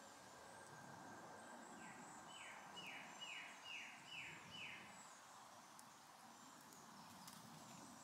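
A songbird singing a short phrase of about six down-slurred whistled notes, roughly two or three a second, starting a couple of seconds in. Faint outdoor background with a thin high steady buzz.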